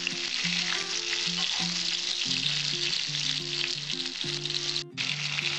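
Pointed gourd pieces sizzling as they fry in mustard oil in an aluminium kadai, stirred and turned with a metal spatula. A soft background tune plays underneath, and the sound drops out for an instant near the end.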